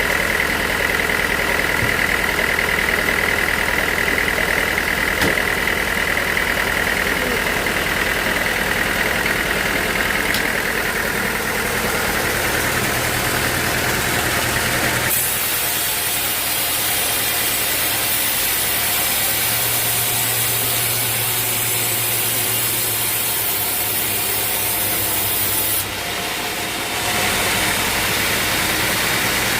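Portable band sawmill running steadily, engine and blade sawing a teak log. The sound changes abruptly about halfway through, turning hissier, and again shortly before the end.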